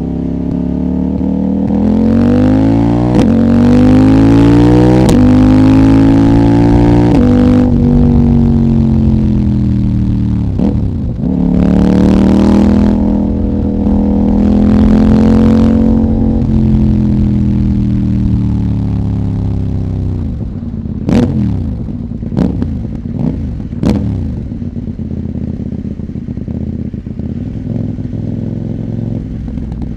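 CFMOTO 800NK's parallel-twin engine, decatted and running the stock muffler, accelerating through the gears. The pitch drops sharply at each quickshifter upshift, then the bike accelerates again and backs off. As the throttle closes, a few sharp exhaust pops come about two-thirds of the way through, then the engine settles to a steadier note.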